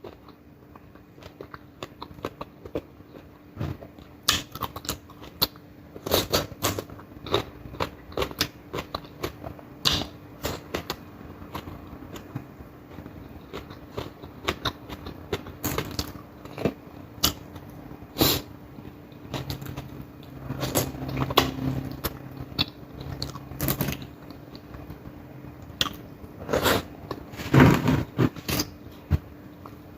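Close-up chewing and biting of crisp fried dried fish and vegetables with rice, with sharp crunches scattered irregularly throughout and a loud cluster near the end.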